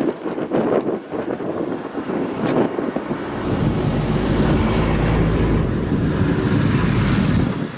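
A motor vehicle's steady rumble with road hiss, building about three seconds in and cutting off shortly before the end.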